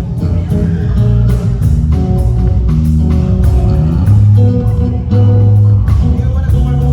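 Live band playing a song in rehearsal: sustained bass and guitar notes over steady drum hits.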